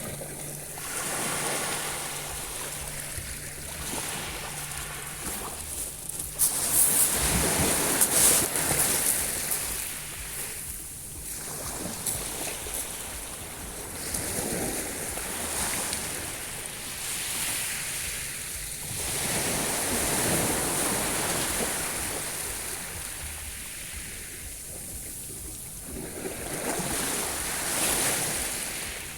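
Sea waves washing in, swelling and falling back every few seconds.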